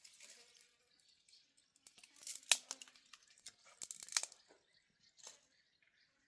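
Dry crunching and tearing crackles in two short bursts, about two and four seconds in, with a fainter one near the end.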